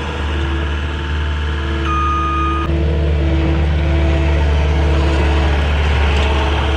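Cat 259D compact track loader's diesel engine running steadily while moving dirt, with a deep hum, and one high beep from its reversing alarm about two seconds in. The engine gets slightly louder just after the beep.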